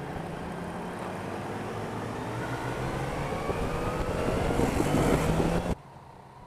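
Yamaha Niken GT's three-cylinder engine accelerating, its pitch rising steadily with wind noise growing over it. The sound cuts off abruptly near the end.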